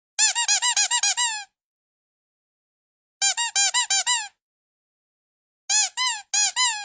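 Squeaky dog toy squeaking in three bursts of rapid, high squeaks, about a second each, with silence between the bursts.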